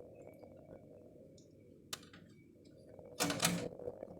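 Light scattered clicking and tapping, with one sharp click about two seconds in and a louder, noisy rasp about three seconds in.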